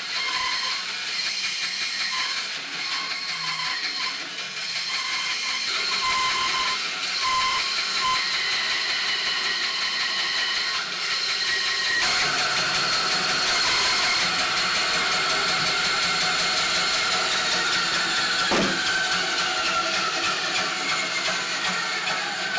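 Power saw running steadily while cutting the outline of a wooden guitar body blank. Its sound changes about twelve seconds in.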